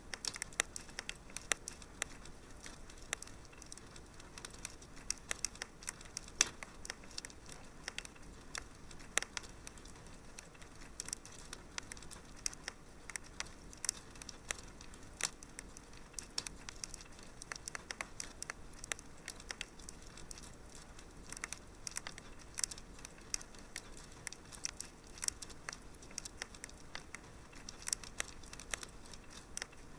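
Wood fire crackling in a fireplace: frequent sharp, irregular pops and snaps over a steady faint hiss.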